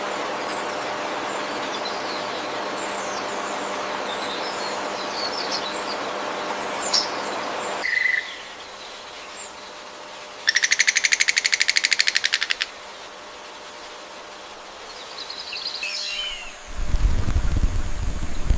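Tropical forest waterside ambience: scattered short bird chirps and calls over a steady rush of flowing water, which stops abruptly about eight seconds in. Later comes a rapid, evenly pulsed trill lasting about two seconds, and near the end a low rumble with a few more chirps.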